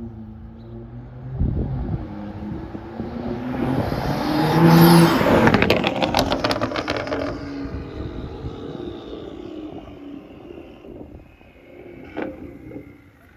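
BMW F30 335i's turbocharged N55 straight-six, breathing through a catless downpipe and AWE exhaust, drives past. The exhaust note builds to a peak about five seconds in, gives a quick run of crackles as it goes by, then fades away.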